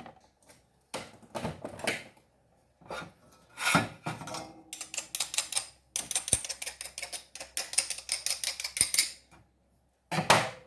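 Tools and small objects being handled on a workbench: scattered knocks and clatter, then about three seconds of rapid rattling clicks.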